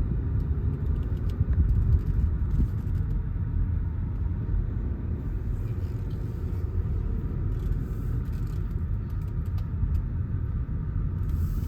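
Steady low rumble of a moving car, road and engine noise, with faint light rattles.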